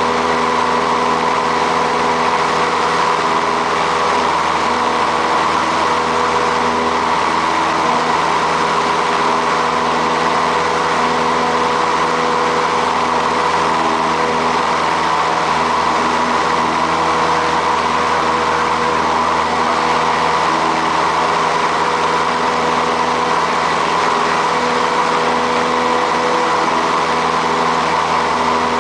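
Light piston aircraft engine and propeller droning steadily at constant power, with no change in pitch or level.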